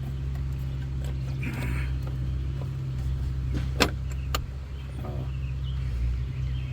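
Plastic air filter box cover and its spring clips being worked by hand, giving a few sharp clicks and a brief scrape, over a steady low hum.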